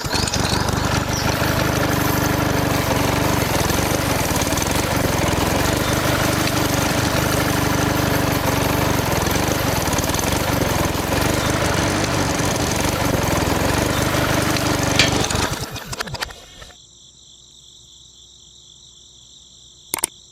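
Mini diesel engine running steadily, then dying away and stopping about four seconds before the end. A short click follows near the end.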